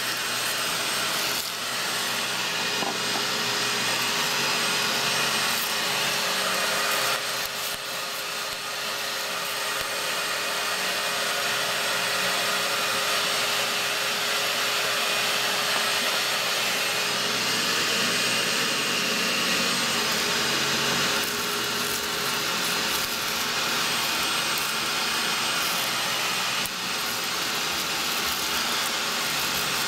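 Vacuum cleaner running steadily, sucking soot and combustion debris out of an oil-fired hot water boiler's firebox.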